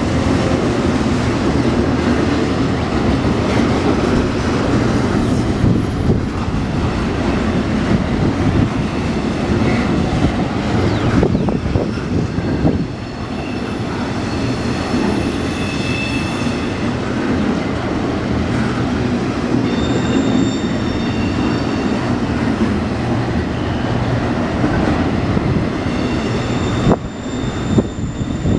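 Double-stack intermodal train's loaded well cars rolling past on a curve: a steady rumble of wheels on rail. From about halfway through, high-pitched wheel squeal comes and goes over the rumble.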